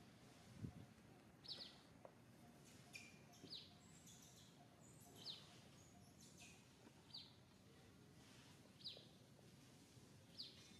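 Faint bird call: a short, high, falling chirp repeated about every one and a half to two seconds, over quiet outdoor background noise.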